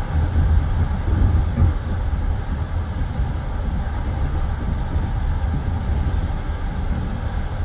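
Passenger train's wheels running on the rails, heard from inside the carriage: a steady low rumble.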